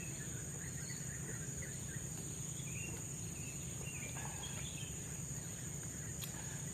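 Tropical forest ambience: a steady high-pitched insect drone with scattered short bird chirps over a low, even rumble.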